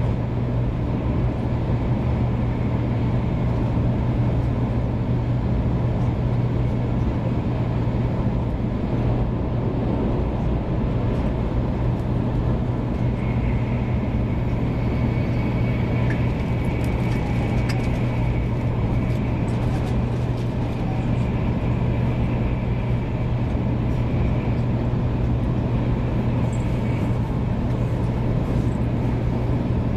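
Steady running noise inside the cabin of a 500 series Shinkansen train: a constant low hum under an even rushing noise, with a faint high whine in the middle stretch.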